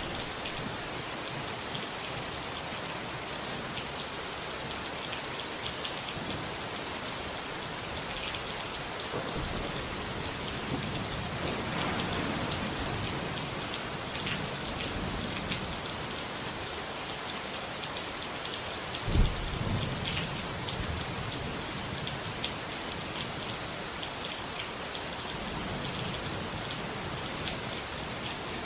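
Steady heavy rain falling, an even hiss with scattered drops. About two-thirds of the way through a thunderclap breaks in and rolls off into low rumbling for a couple of seconds; a softer distant rumble comes earlier.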